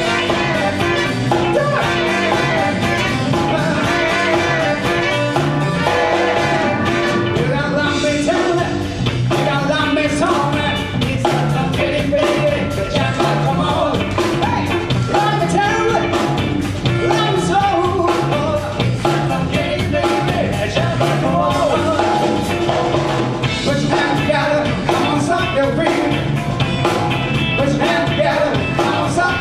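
Live band music: a full band playing a song with a steady drum beat.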